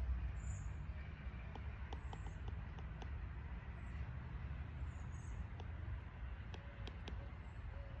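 Open-air ambience: a steady low rumble, with scattered faint clicks and a few brief high chirps.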